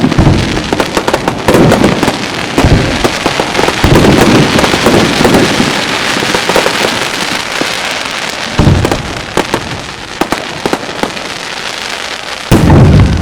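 Aerial fireworks bursting overhead: dense, continuous crackling from crackle stars, broken by several deep booms of shells exploding.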